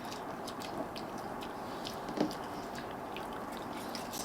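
A dog chewing food with quick, crisp crunching clicks, with one brief louder sound about two seconds in.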